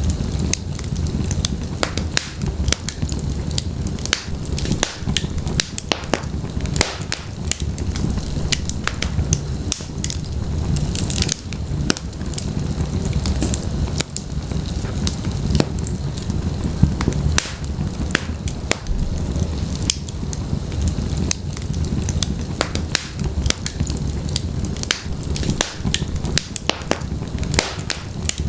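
Wood fire of burning logs crackling and popping, many sharp snaps over a steady low rumble of flame.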